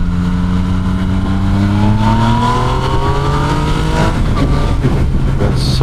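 Motorcycle engine under way, its pitch rising steadily for about four seconds as the bike accelerates, then dropping and running on lower, over wind and road noise.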